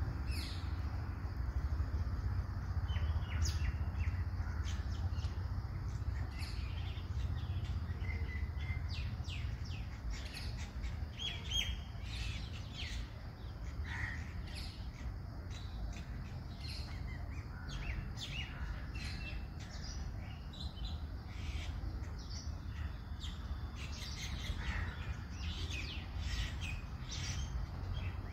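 Small birds chirping: many short high calls, often several in quick clusters, over a steady low rumble.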